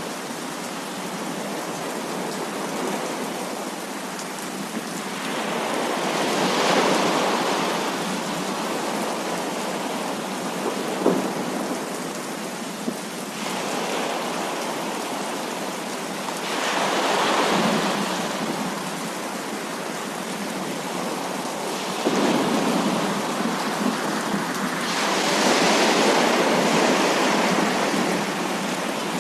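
Heavy rain falling steadily, with thunder rolling in three louder swells: about a quarter of the way in, just past halfway, and a longer one near the end. A couple of brief sharp cracks come in between.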